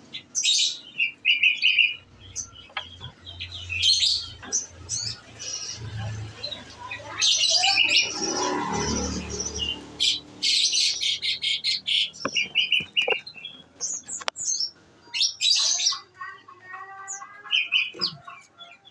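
Kolibri ninja sunbird singing in repeated bursts of high, rapid chirps and trills, the 'shooting' song prized in kept konin. A lower, rougher noise runs under it for a few seconds around the middle.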